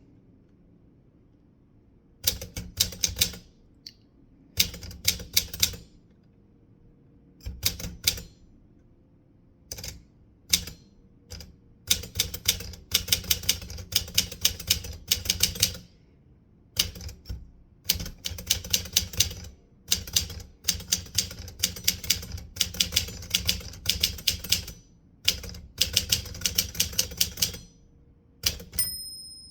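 Typewriter keys being struck in quick runs of several keystrokes, broken by pauses of a second or two. Near the end a single clear ring sounds and fades, the typewriter's margin bell at the end of a line.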